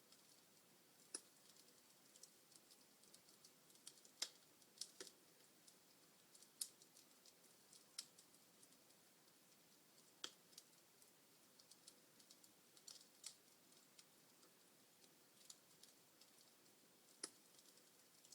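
Log fire in a fireplace crackling: faint, irregular snaps and pops of burning wood over a soft hiss, with a few louder pops scattered through.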